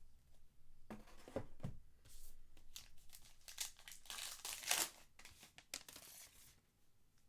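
Crinkling and tearing of a trading-card pack wrapper being opened and handled, in a run of rustling bursts that peaks about four to five seconds in, with a few soft knocks from handling near the start.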